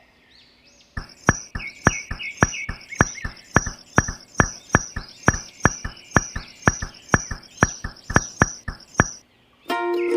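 A steady run of sharp knocks, about three a second, each with a high ringing tone, that starts about a second in and stops about nine seconds in. Plucked-string music begins just before the end.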